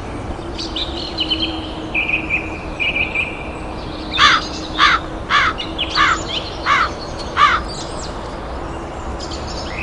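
A bird calling: a few thin, high chirps at first, then six loud calls in a row, a little over half a second apart, about four seconds in.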